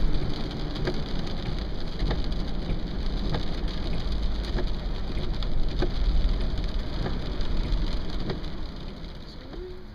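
Heavy rain falling, with scattered sharp drops striking close by over a steady low rumble. It gets quieter over the last couple of seconds.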